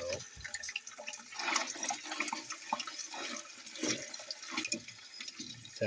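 Thin ribeye steak sizzling in hot lard, with many small irregular pops and crackles of spitting fat.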